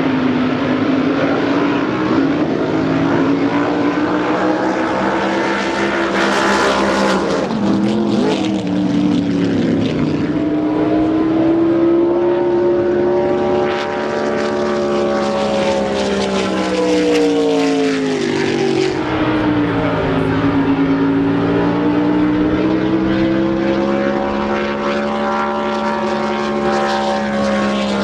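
A racing boat's engine running at part throttle, its pitch slowly rising and falling over several seconds at a time and dipping sharply twice.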